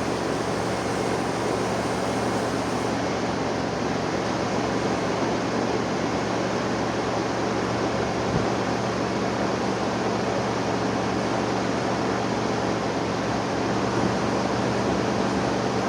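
The old Ford motorhome's engine running steadily after a cold start, with a single short knock about halfway through.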